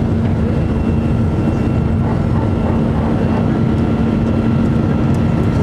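Steady cabin noise inside an Airbus A319 with its jet engines running, a constant low hum under an even rush of noise that does not change in pitch.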